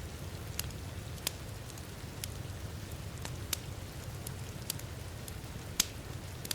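Wood fire in a fireplace crackling, with irregular sharp pops, the loudest one near the end. Under it runs a steady low rumble of heavy rain.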